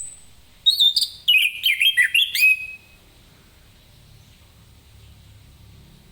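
Orange-headed thrush singing one short, fast phrase of varied whistled and chirping notes, starting about a second in and lasting about two seconds.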